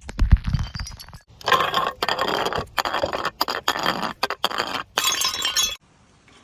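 Glass breaking: a heavy thud with cracking at the start, then a long run of dense glass crunching and clinking that stops suddenly near the end.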